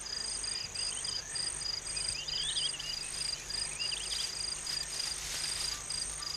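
Savanna insects, crickets or cicadas, calling in a steady pulsing rhythm of two high tones, a few pulses a second, with faint short chirps now and then.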